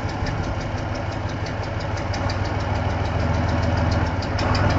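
Heavy vehicle engine running steadily with a regular light clatter of about five ticks a second, getting a little louder a little past four seconds in.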